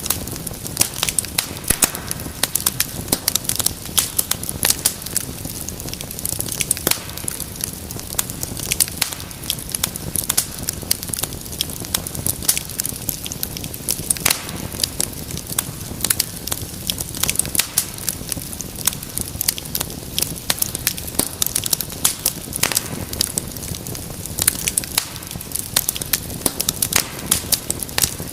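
Wood fire in a fireplace crackling, with dense irregular pops and snaps over a steady low rush of flame.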